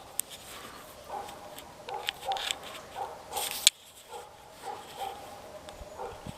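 A dog whining in short repeated whimpers, with a brief loud rushing noise about three and a half seconds in.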